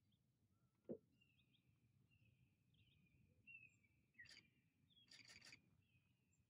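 Near silence with faint, high bird chirps repeating every half second or so, a soft knock about a second in, and a few sharp clicks near the end.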